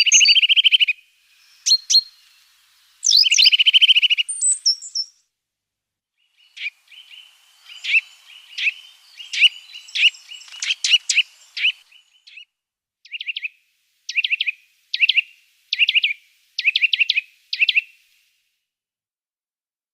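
Small garden songbirds calling. A fast, buzzy trill comes at the start and again about three seconds in. After a short pause, a long run of short high chirps follows, in quick clusters of two or three toward the end.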